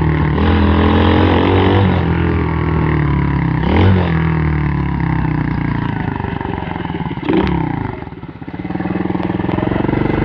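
M2R KX110F pit bike's 110cc four-stroke single-cylinder engine running under way as the bike is ridden. The revs rise and fall a few times, with a brief drop in engine noise about eight seconds in before it picks up again.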